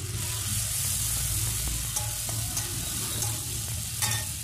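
Chopped tomato, green chillies and ginger paste sizzling steadily in oil and ghee in a kadai, with a metal spatula scraping and ticking against the pan a few times as it is stirred.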